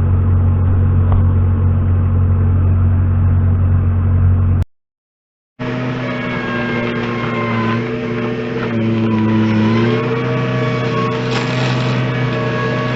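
A heavy machine's engine running steadily. About four and a half seconds in the sound cuts to a second of silence, then an engine runs again, its pitch dipping briefly and recovering about two seconds later.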